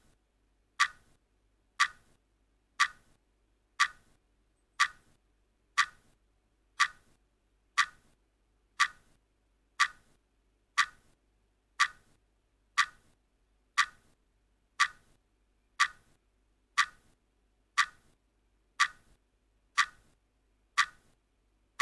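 Countdown timer ticking, one sharp clock-like tick each second, as it counts down the last seconds before time runs out.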